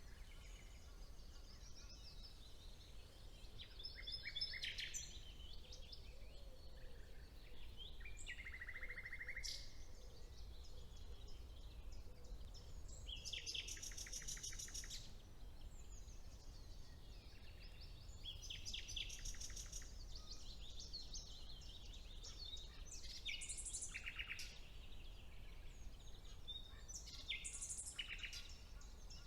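Several songbirds singing in turn and overlapping: short phrases, whistles and fast trills of repeated notes, over a steady low background rumble.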